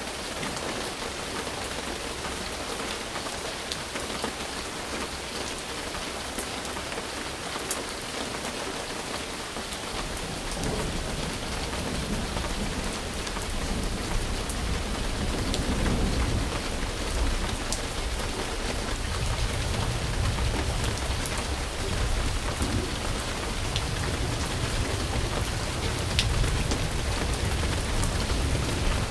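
Steady rain falling, with scattered sharp drop ticks. About ten seconds in, a low thunder rumble comes in and keeps rolling, growing louder in the second half.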